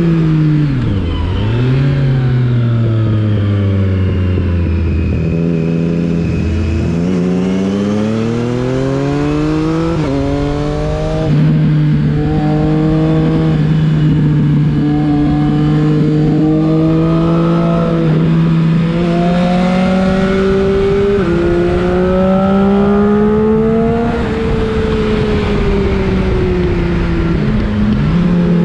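Triumph Street Triple 675 R's three-cylinder engine on the move, its note rising and falling with the throttle and with several gear changes. A steadier stretch of cruising runs through the middle.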